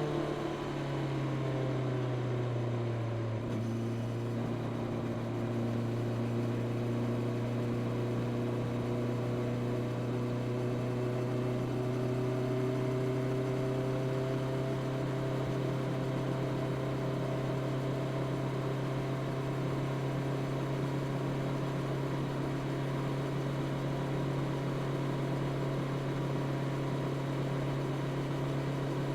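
Honda CB650R's inline-four engine through its stock exhaust, its pitch falling over the first few seconds as the throttle is rolled off, then running at a steady, even cruise with a constant hiss behind it.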